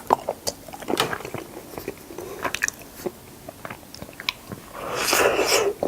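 Close-up chewing and biting of strawberry mochi ice cream: many small, sharp wet clicks and smacks. A louder rushing noise comes about five seconds in and lasts under a second.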